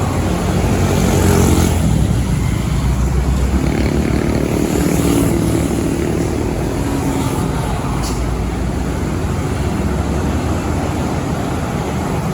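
Heavy trucks driving past on the road, their engines running with a low hum and tyre noise. The engine sound swells about a second in and again in the middle.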